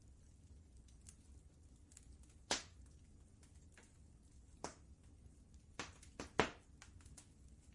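Wood fire crackling in a fireplace: scattered sharp pops, several of the louder ones bunched in the second half, over a faint low steady rumble.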